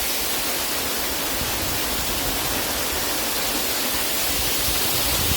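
Water of a waterfall rushing over rocks: a steady, even hiss.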